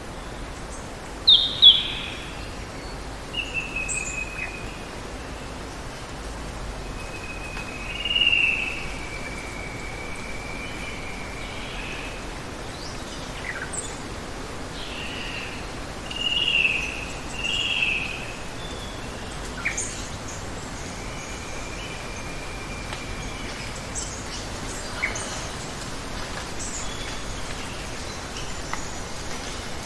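Rainforest ambience: a steady hiss of running water or rain under scattered bird calls. Two loud sharp notes about a second and a half in, long level whistled notes a few times, and short high chips later on.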